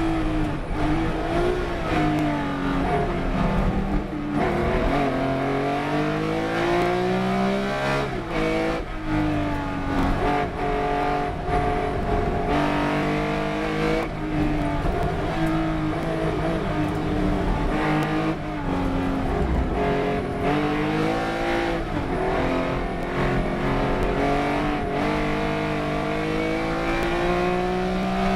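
Race car engine at full throttle, climbing in pitch through each gear and dropping sharply at each shift or lift several times, as the car laps the circuit.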